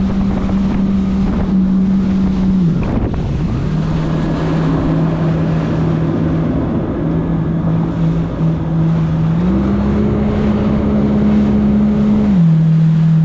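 Jet ski engine running on open water, with wind buffeting the microphone. The engine note drops about three seconds in, picks back up about ten seconds in, and eases off again near the end.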